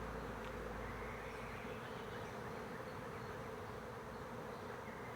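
Steady buzzing hum of hundreds of bees massed in a tree colony, many wingbeats blending into one even drone.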